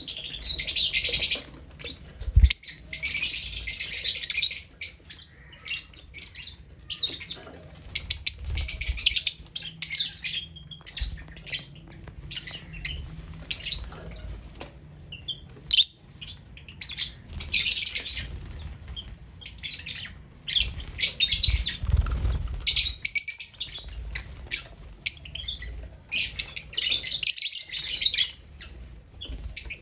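Pet lovebirds chattering in shrill bursts of a second or two, over and over, with scattered short clicks and a few low thumps between them.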